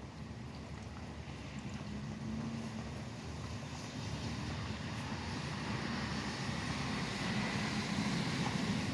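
Steady rain with highway traffic; the hiss of tyres on the wet road swells toward the end as a vehicle draws near.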